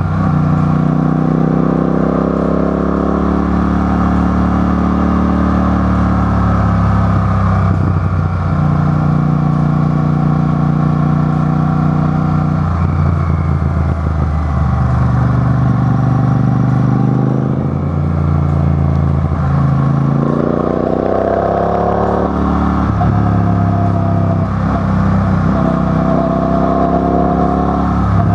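Motor vehicle engines running loudly, their pitch stepping up and down every few seconds, with rising revs about twenty seconds in and again near the end.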